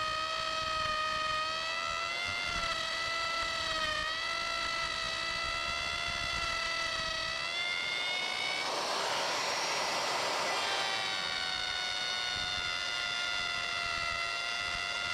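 Hand-held electric router running at full speed with a flush-trim bearing bit following a template: a steady high motor whine whose pitch sags slightly as the bit bites. From about 8.5 to 11 seconds in, a louder rush of cutting noise partly covers the whine.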